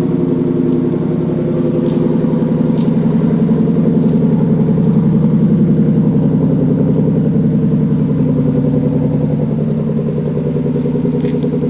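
2011 Ford Mustang GT's 5.0 L V8 running steadily with a pulsing exhaust note, swelling slightly mid-way and easing off toward the end.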